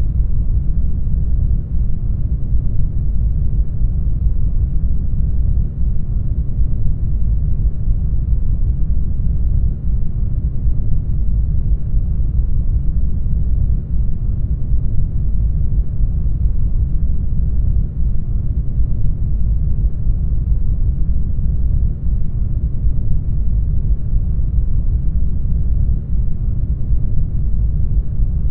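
Brown noise: a steady, deep hiss that is strongest in the low end and with no high treble, its level dipping slightly about every four seconds.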